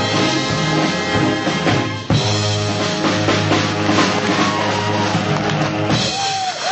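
Swing big band with brass and drums playing a live tune to its final bars, the full band cutting off together about six seconds in.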